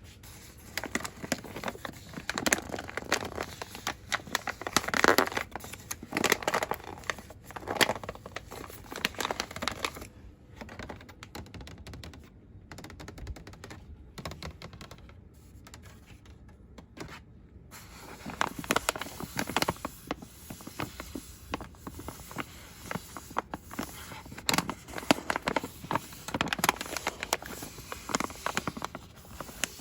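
Fast, aggressive ASMR rustling: fingers crinkling, tapping and scratching on cosmetics packaging in quick irregular clicks. About ten seconds in it thins out for several seconds, then grows busy again.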